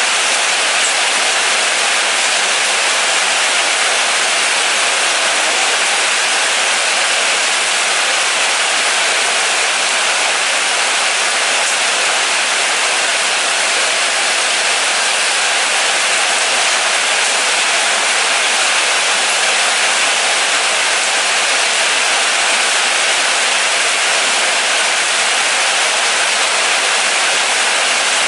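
Moderate rain falling steadily: an even hiss with no single drops standing out and no change in strength.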